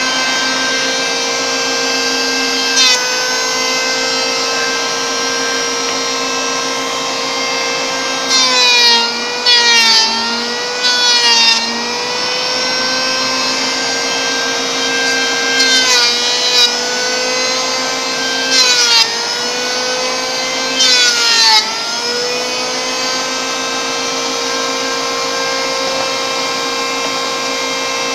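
Electric wood planer running with a steady motor whine. Several times, about a second apart to a few seconds apart, the whine drops in pitch as the blades bite into the board, with bursts of rasping cutting noise.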